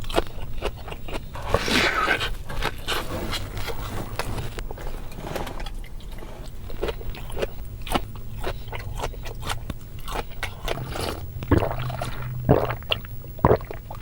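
Close-miked chewing of crisp food, with irregular crunches and crackles from bites.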